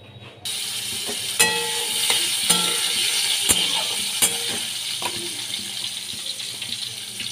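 Diced potatoes sizzling in hot oil in a wok, stirred with a metal spatula that clacks against the pan several times. The sizzle starts abruptly about half a second in.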